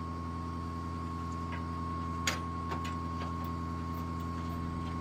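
Truck engine idling steadily, with a thin steady high whine over it and a single sharp click a little over two seconds in.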